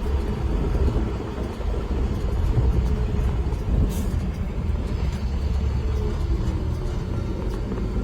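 A 1965 Ford F-100 pickup's 300 cubic inch inline six running with a steady low rumble.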